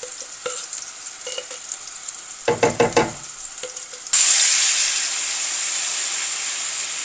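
Blended garlic and shallot spice paste being sautéed in a hot wok: a faint sizzle with small taps, a quick run of knocks from the spatula against the blender jar about two and a half seconds in, then a loud sizzle that starts suddenly about four seconds in as more paste drops into the hot pan, easing off slowly.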